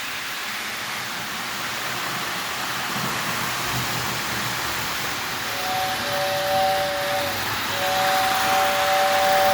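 Lionel 2020 S2 turbine toy train rolling steadily on three-rail track. About five and a half seconds in, the 6466W tender's two-note whistle blows twice: a short blast, then a longer one that is still sounding at the end.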